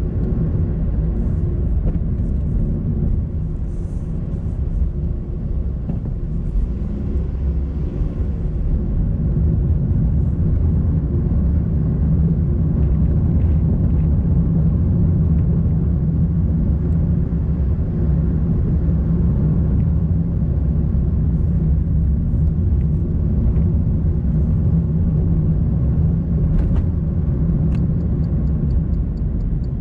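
Car driving along a road: a steady low rumble of engine and road noise. Near the end a fast, even ticking starts.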